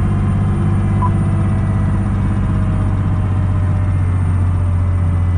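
Fire truck engine running steadily, heard from inside the cab as a constant low drone.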